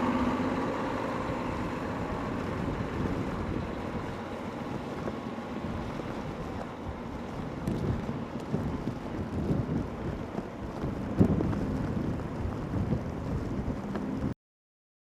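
Storm wind buffeting the microphone over a steady rushing noise, with a few stronger gusts past the middle. A pitched hum fades out in the first second, and the sound cuts off abruptly near the end.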